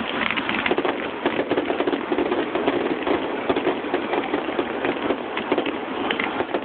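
Fireworks finale: dense, continuous crackling and popping of many small bursts going off at once, with no pauses.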